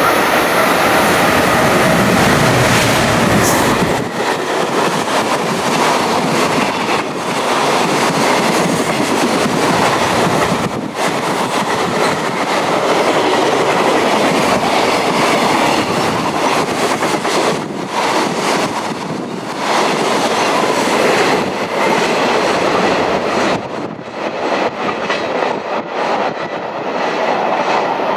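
Freight train of Koki 100-series container wagons hauled by an EF510 electric locomotive passing through at speed. The wheels clatter over the rail joints in a steady run of clicks with continuous rolling noise, heavier and deeper for the first few seconds.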